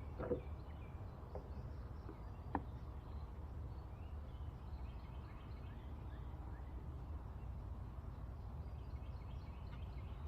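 Small birds chirping in short, scattered calls over a steady low rumble, with two sharp clicks, one right at the start and one about two and a half seconds in.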